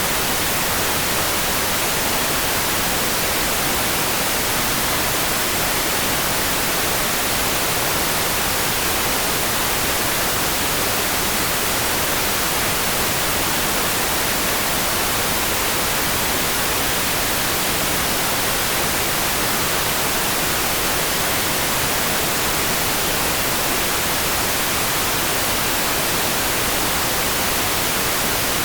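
Rain sleep-sound: a steady, even hiss that never changes in level, with no separate drops or other events standing out.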